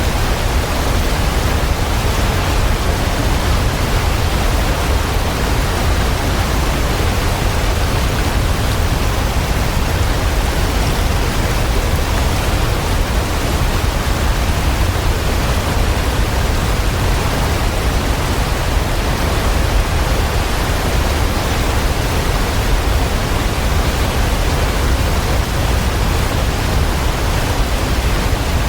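Waterfall: water falling in a steady, unbroken rush with a deep rumble underneath.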